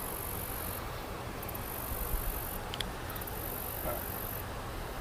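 Insects singing in high-pitched, pulsing stretches that start and stop, over a steady outdoor background hiss, with a couple of faint clicks.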